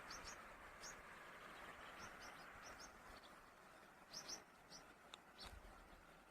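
Small bird calling in short high chirps, often in quick pairs, scattered irregularly, over a faint steady rush of falling water.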